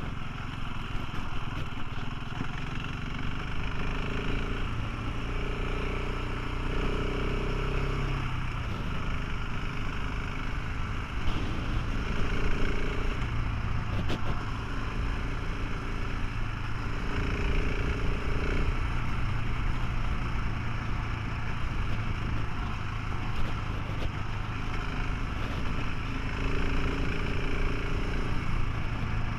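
Motorcycle engine running on the move, with wind rushing over the microphone. A higher tone in the engine sound comes and goes several times.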